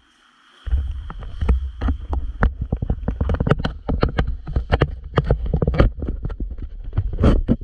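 Jolting ride on an ATV over a rough trail: a deep rumble, like wind buffeting the microphone, with rapid, irregular knocks and rattles from the bumps. It starts about a second in.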